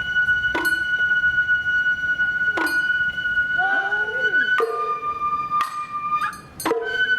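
Sawara festival hayashi music: a bamboo flute (shinobue) holding long high notes, shifting to a lower note about four and a half seconds in, over sharp percussion strikes every second or two.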